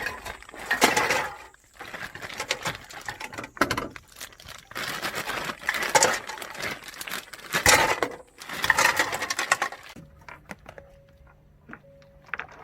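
Irregular rustling, scraping and crinkling bursts of things being handled, loudest in waves about one, six and eight to nine seconds in. Near the end this stops, leaving faint steady tones with light ticks.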